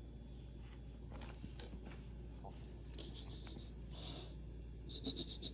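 A kitten's claws scratching in short bursts of rapid strokes, about three and four seconds in and then a longer run near the end.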